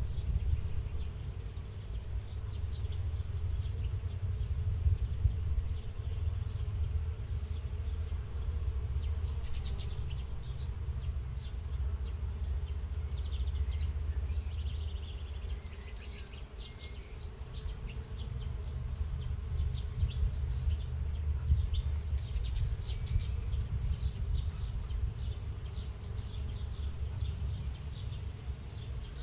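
Insects buzzing over a flowering field, with short, high bird chirps scattered through and a steady low rumble underneath.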